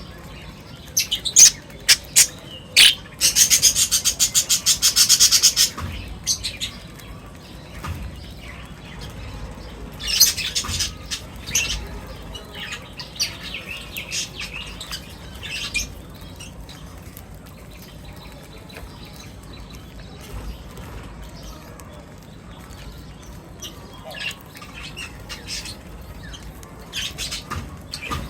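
Birds chirping and calling. A loud, fast chattering run of notes about three seconds in lasts a couple of seconds, with scattered sharper calls before and after it.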